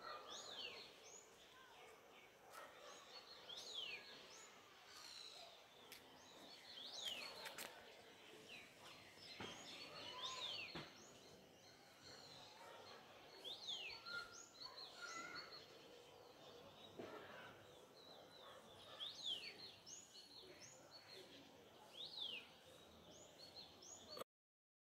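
A bird repeating a short, high chirping call every couple of seconds, each note sweeping quickly up and then down, over faint outdoor background noise. It cuts off suddenly near the end.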